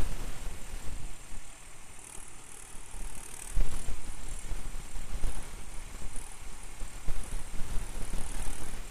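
Tractor engine running outdoors as an uneven, rumbling noise that rises and falls, growing suddenly louder about three and a half seconds in.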